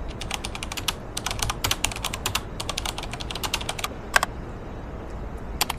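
Typing on a keyboard: a run of quick, irregular key clicks that stops about four seconds in, followed by two more clicks near the end.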